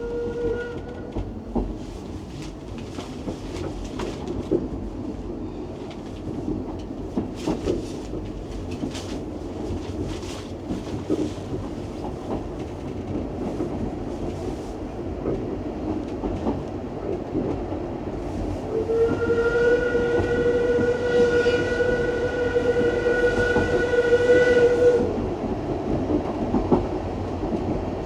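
Isle of Man Steam Railway train running, its wheels clicking over rail joints. The steam locomotive's whistle ends about a second in, and sounds again as one steady blast of about six seconds past the middle.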